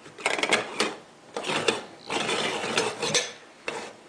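A moka pot's top chamber being screwed onto its base: a few scraping twists of the metal threads, each under a second long.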